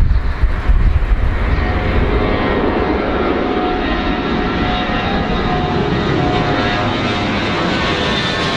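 Airplane engines running, with a steady whine over a dense rush that grows brighter and fuller toward the end. Wind rumbles on the microphone in the first second or so.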